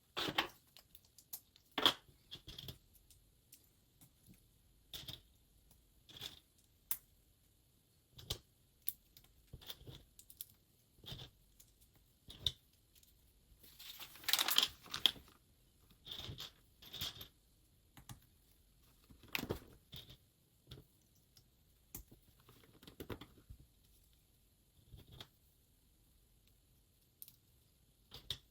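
LEGO pieces being handled: scattered small plastic clicks and rattles, with short rustles of sorting through pieces. The longest and loudest rustle comes about halfway through.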